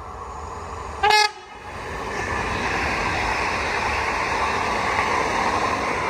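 A train going by: a brief horn blast about a second in, the loudest sound, then the train's running noise builds and stays loud.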